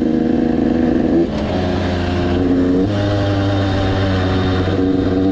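KTM 85 BigWheel's small two-stroke dirt-bike engine running hard at speed, its pitch stepping down about a second in and again near three seconds.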